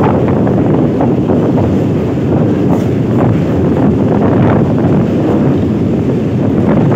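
Electric multiple unit local train running across a steel truss bridge: wind buffeting the microphone over the steady rumble of the wheels, with irregular clatter from the rails.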